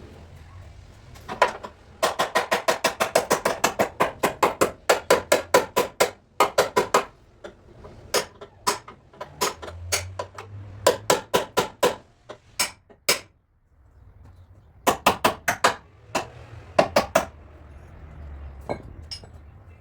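Body hammer tapping on a car's sheet-metal panel: fast, sharp, ringing strikes about six a second, in runs broken by short pauses, with slower single taps in the middle and near the end.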